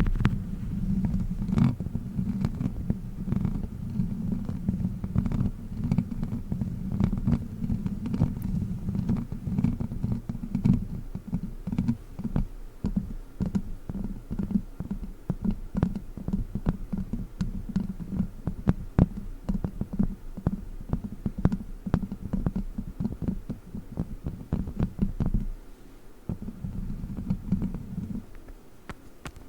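Plastic witch-finger claws rubbing and scratching close on a microphone: a dense low rumble of handling noise with many quick clicks and taps. The rumble thins out near the end.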